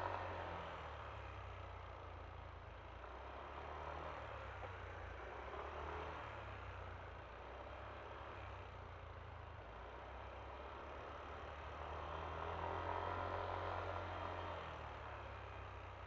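Yamaha Aerox V3 scooter's single-cylinder engine running under way, with road and traffic noise. The engine note swells louder twice, at the very start and again for a few seconds near the end.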